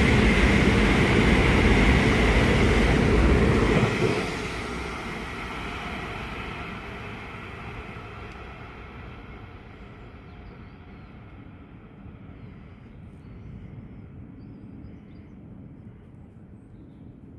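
A train passing on the main line, loud for about four seconds with a steady high whine over the rumble, then dropping off suddenly as it clears and fading away into the distance.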